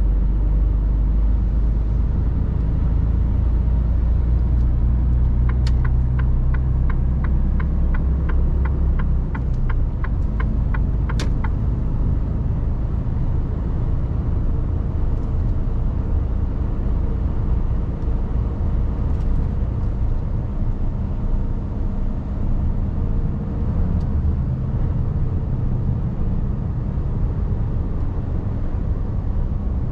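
Mercedes Actros truck's engine and road rumble heard inside the cab while driving. From about five seconds in, a turn indicator ticks steadily about three times a second for about six seconds.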